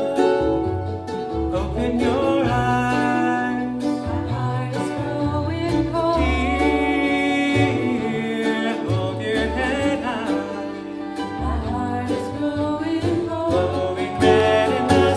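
Live acoustic band music: an instrumental passage of a song with plucked and bowed strings playing.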